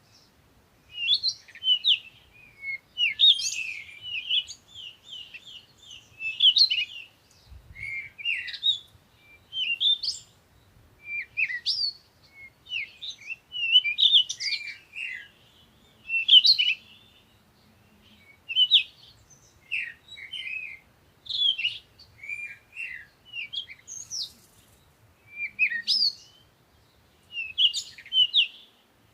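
Songbirds singing short phrases of high, quick chirps and whistles, repeated every second or two with brief pauses between.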